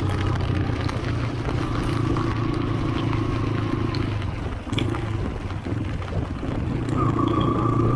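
Motorcycle engine running under way, easing off briefly about halfway, then picking up again with a rising whine about seven seconds in.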